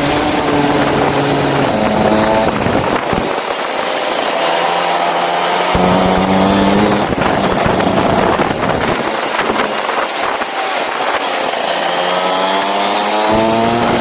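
Go-kart engine running hard, its revs climbing and dropping back several times, over a loud steady rush of noise.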